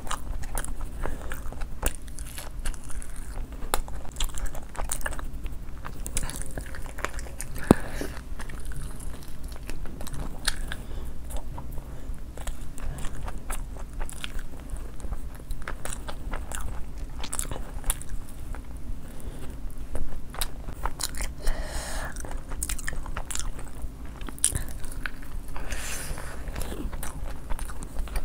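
Close-miked eating: biting and chewing food, with many small sharp clicks and crackles all the way through.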